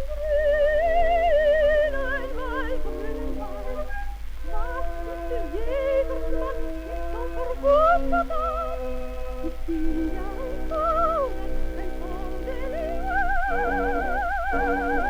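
Coloratura soprano singing an ornate song in quick runs, breaking into a sustained trill about two-thirds of the way in, over steady instrumental accompaniment. It is a 1914 acoustic recording, with a constant low hum beneath.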